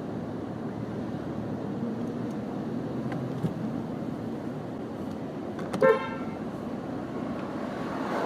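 Steady street traffic noise, with one short car horn toot about six seconds in.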